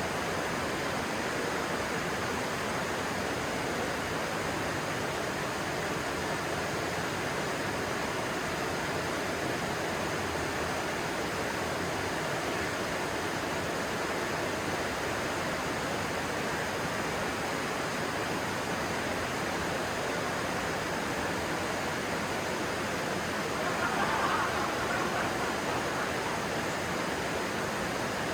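Stream water rushing and splashing steadily. Near the end there is a brief, slightly louder splash.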